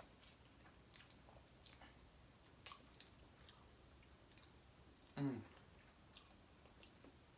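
Faint close-up chewing and mouth sounds of a person eating soft food (mashed potatoes, gravy and corn), with light clicks of a utensil in a plastic bowl. About five seconds in there is one brief low vocal sound that falls in pitch.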